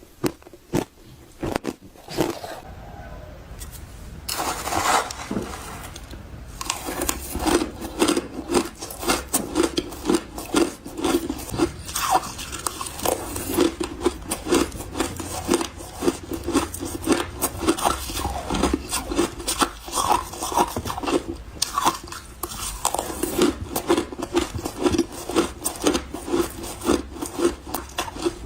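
Close-up chewing of mouthfuls of refrozen powdery ice, soft crunching in a quick, steady chewing rhythm. The first few seconds hold only a few scattered crunches; from about four seconds in the chewing runs on densely.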